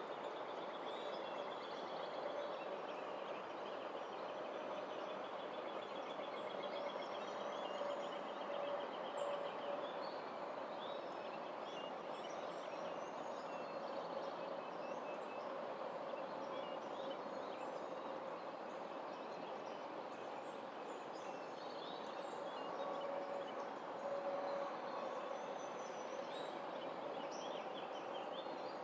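Outdoor ambience: several birds chirping and calling over a steady background hum, with one bird giving a rapid trill for a few seconds near the start.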